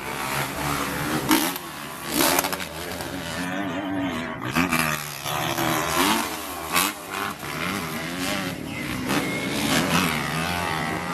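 Motocross motorcycle engines racing, several at once, their pitch rising and falling as the riders rev and shift.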